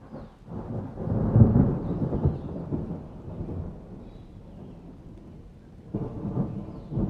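Thunder rumbling during a rainstorm: a deep roll that swells about a second in and dies away, then a second rumble near the end.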